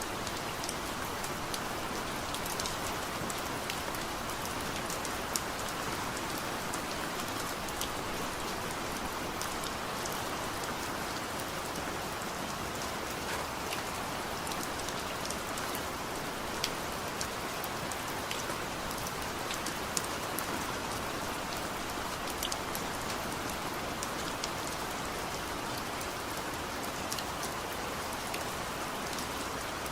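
Heavy rain falling steadily, with scattered sharp ticks of individual drops hitting a surface.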